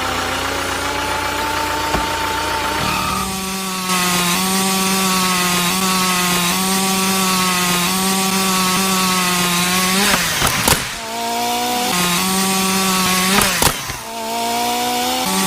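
Homemade mini wood cutter: a small motor-driven saw blade whining steadily as it cuts into wood. The pitch climbs slowly at first, then drops and holds lower about three seconds in as the blade takes load. The sound breaks off briefly twice, about ten and thirteen and a half seconds in.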